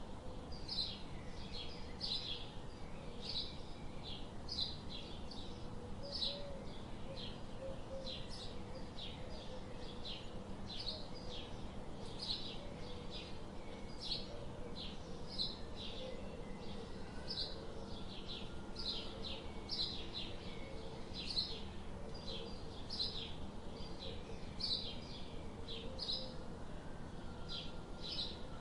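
Birds chirping: short, high chirps repeating about twice a second without a break, over a faint steady low hum.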